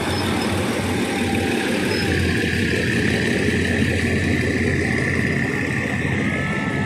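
Diesel-hauled passenger train running, a steady rumble of wheels on rails and engine. A thin, steady high whine joins about two seconds in and holds to the end.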